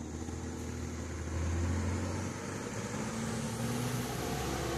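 A car's engine running with a steady low hum, the noise swelling about a second and a half in.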